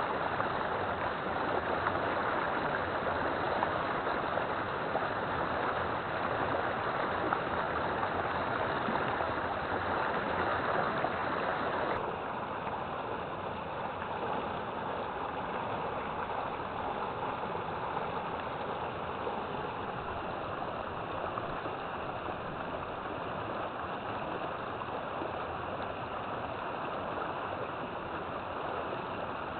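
River water flowing in a steady rush. About twelve seconds in, the sound changes abruptly to a slightly quieter, softer rush.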